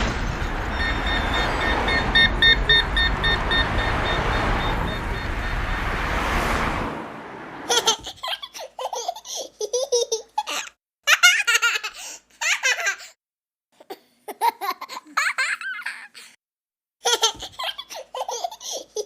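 A steady noisy rush with faint pulsing tones for about seven seconds, then a young child laughing in repeated high-pitched bursts with short pauses between.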